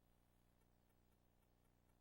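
Near silence: a blank VHS audio track with only a faint, steady electrical hum and hiss.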